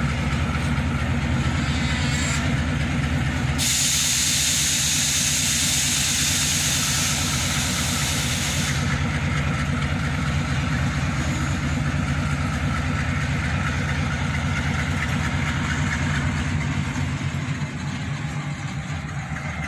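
Freight train of hopper cars rolling slowly past, with a steady low rumble and the drone of a diesel locomotive engine. A loud hiss starts about three and a half seconds in and lasts about five seconds, then cuts off.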